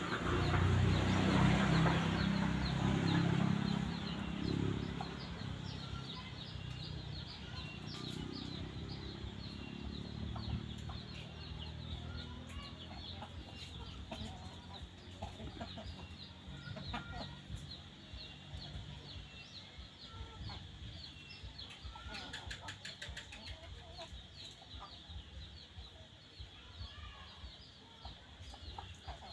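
Chickens clucking as they feed on a ripe mango, with many short high cheeps and scattered sharp clicks throughout. A low rumble is loudest over the first few seconds and fades.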